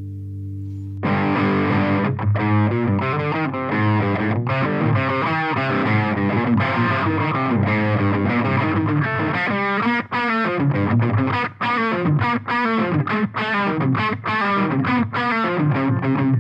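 Electric guitar played through an Eagletone Biyang OTD 100 distortion pedal with a 12AX7 tube, its tone control turned all the way down so the distortion sounds dull and dark. A held chord rings for about a second, then a fast distorted riff follows, with short stops between phrases in the second half.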